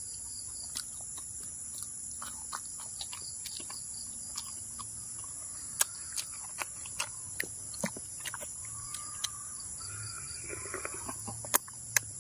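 Close-up eating sounds: wet lip-smacking and chewing clicks, coming irregularly and louder in the second half. They sit over a steady high drone of crickets.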